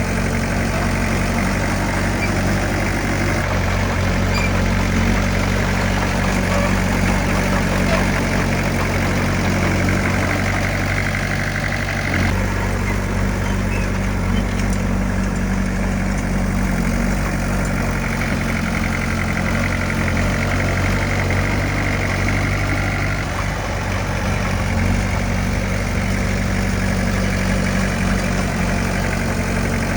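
Heavy diesel earthmoving machine's engine running steadily, with a slight shift in its note about twelve seconds in.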